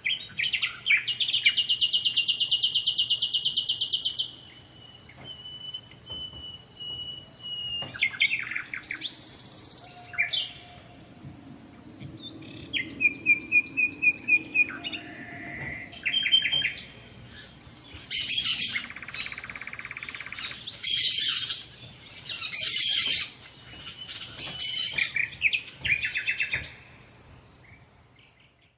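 Songbirds singing a string of varied phrases. About a second in comes a fast trill that lasts about three seconds, followed by shorter whistles and trills, with a busier run of phrases in the second half. A faint steady high tone sits underneath throughout.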